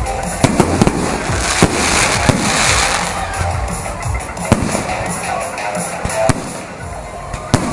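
Fireworks going off: several sharp bangs of bursting shells at irregular intervals, with a stretch of crackling about two to three seconds in. Music plays underneath.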